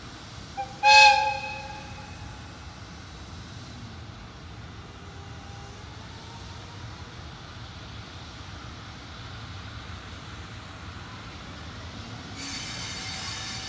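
A locomotive's horn sounds once, a short blip then a brief loud blast about a second in, over the steady rumble of a train. Near the end a louder running noise with several thin high steady tones comes in.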